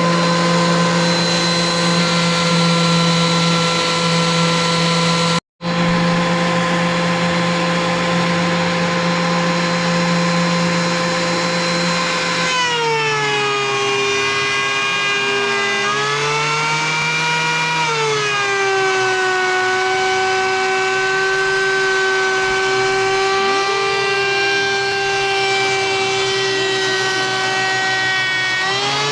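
DeWalt electric hand planer running with a steady motor whine that cuts out for an instant about five seconds in. About halfway through its pitch drops and stays lower for most of the rest, with a short rise in between, as the blades cut into an old wooden beam.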